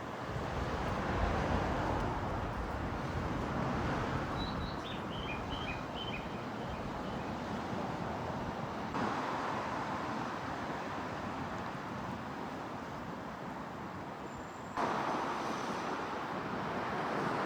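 Steady background traffic noise with a few short bird chirps about five seconds in. The background changes abruptly twice, once about halfway and again near the end.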